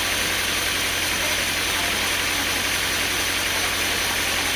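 Sawmill machinery running steadily, with an engine-like low hum and a fast even pulse under a noisy hiss.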